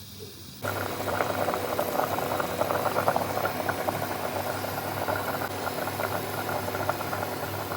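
Pot of chicken and potato stew bubbling at a boil, a dense crackle of popping bubbles that starts abruptly about half a second in, over a steady low hum.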